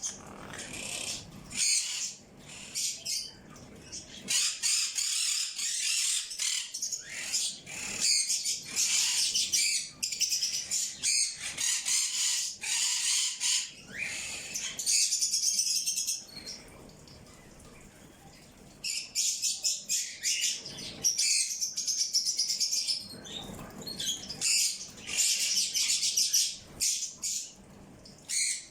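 Many small birds chirping and twittering rapidly in busy, overlapping bursts, with a short lull about halfway through.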